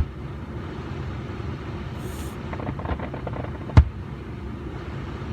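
Distant aerial fireworks: one sharp bang about four seconds in, with a few faint pops before it, over a steady low background rumble.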